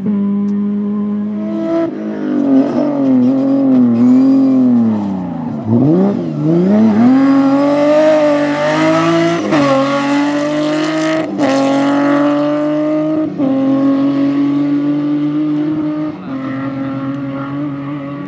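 Rally car engine on a rally stage, its pitch swinging up and down under throttle, then pulling hard with rising revs and several quick upshifts before settling to a steady run.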